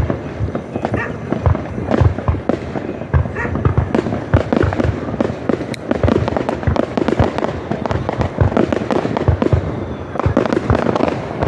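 Aerial fireworks display: a dense, continuous barrage of bangs and booms, several bursts a second, with no pause.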